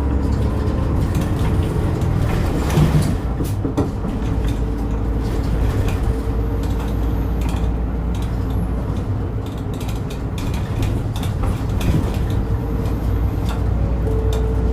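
Inside a moving route bus: the diesel engine and drivetrain run with a steady low drone while the cabin's fittings rattle and click, with a few sharper knocks about three seconds in.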